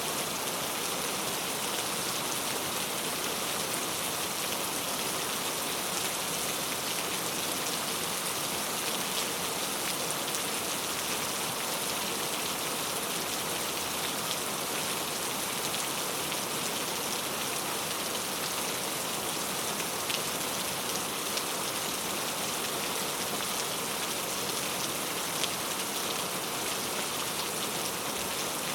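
Heavy rain falling steadily on mango tree leaves: a dense, even patter with the faint ticks of single drops hitting the leaves.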